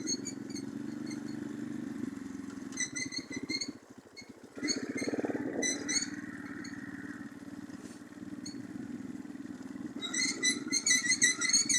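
Orion-100 moped engine running under way, dropping almost to nothing for a moment about four seconds in and then picking up again. Birds chirp over it at several points, most densely near the end.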